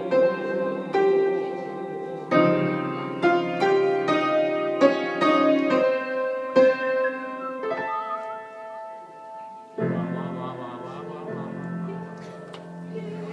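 Piano played, a run of struck chords and melody notes, with a last chord struck near the end and left ringing.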